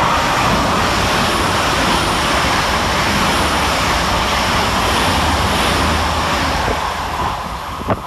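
LNER Class 800 Azuma train passing through the station at speed: a loud, steady rush of wheel and air noise that eases off near the end, with a couple of sharp clicks as it clears.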